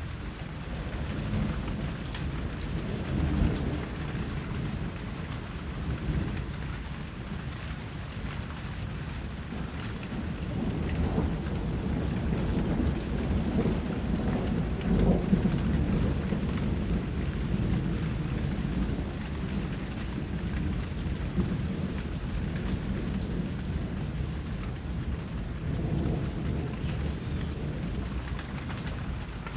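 Steady rain with low rolling rumbles of thunder that swell and fade several times, loudest around the middle.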